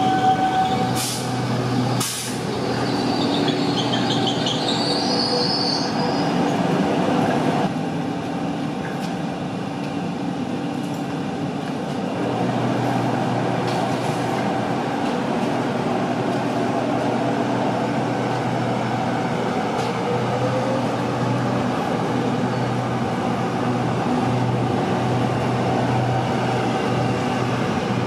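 Trenitalia Pop electric multiple unit rolling slowly past with a steady hum. Two sharp clicks come about a second and two seconds in, and a high wheel squeal dips and rises in pitch for a few seconds after them.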